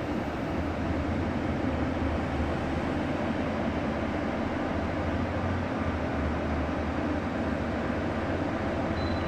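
Steady low engine rumble and road noise of a bus in motion, heard from inside the bus.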